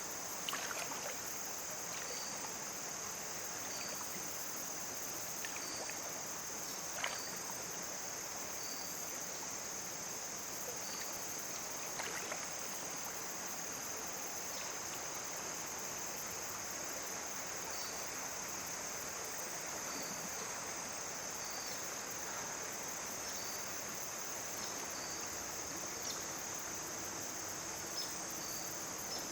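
Insects trilling in a steady high-pitched drone over the hiss of a running stream, with a second faint chirp repeating about every two seconds. A few sharp clicks stand out, the loudest about seven seconds in.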